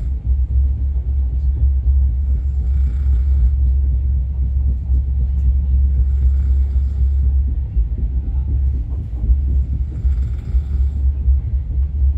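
Steady low rumble of the Netravati Express passenger train running along the track, heard on board. Short faint hissing patches recur about every three to four seconds.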